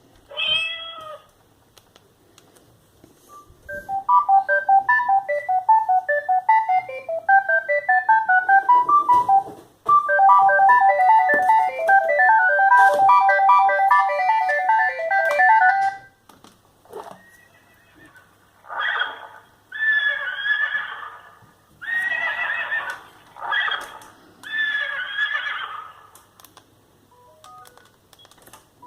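Sagem myX5-2 mobile phone playing its built-in ringtones one after another. A short pitched call comes about half a second in, then two fast melodies of short beeping notes, then several short buzzy blasts near the end.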